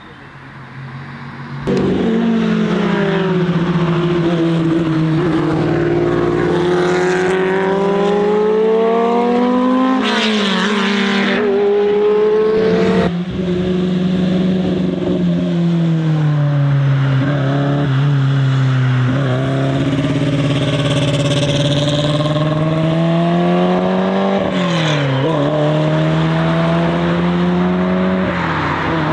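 Car engines running hard through a track corner, their pitch sliding down as they slow and climbing again as they accelerate, with several gear changes. The sound comes in suddenly and loud about two seconds in.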